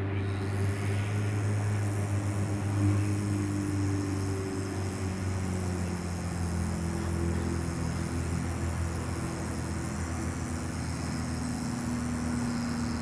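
A man humming low, sustained notes, shifting to a new pitch every few seconds.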